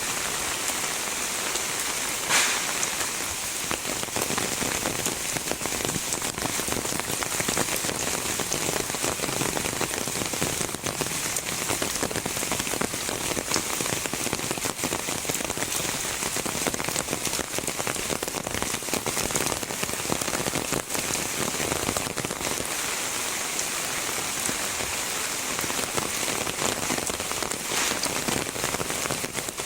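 Heavy rain falling steadily, a dense even hiss of drops with the odd louder splash, the clearest about two seconds in.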